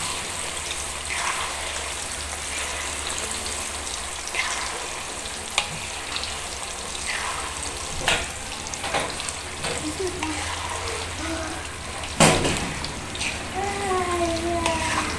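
Bananas frying in hot oil and melting brown sugar in a wok, a steady sizzle, while the brown sugar turns into latik and coats the bananas. A spatula stirs and knocks against the pan several times, with the loudest knock about twelve seconds in.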